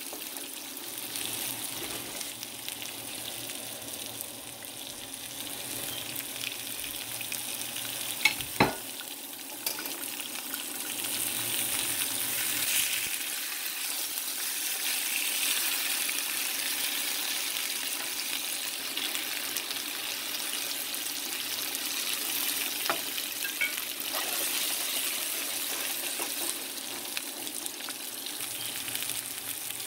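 Stuffed eggplants sizzling in hot oil in a frying pan, with a couple of sharp knocks about a quarter of the way through. After that the sizzling grows louder as cubes of raw potato go into the oil and are stirred with a wooden spatula.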